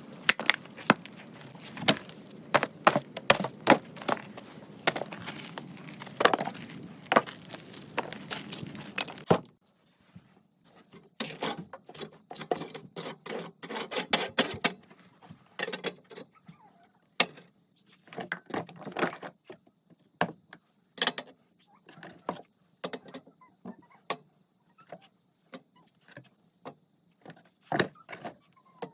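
Wood crackling and snapping in irregular sharp clicks. About nine seconds in the sound changes abruptly: the hiss behind it drops away and the snaps continue more sparsely.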